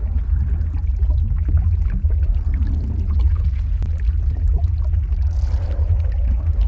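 Lava flow ambience: a steady deep rumble with scattered crackles and pops, and one sharper crack about four seconds in.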